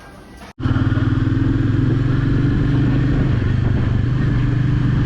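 A motorcycle engine cuts in suddenly about half a second in and runs loud and steady at an even pitch, as when cruising. It is most likely the Royal Enfield Meteor 350's single-cylinder engine.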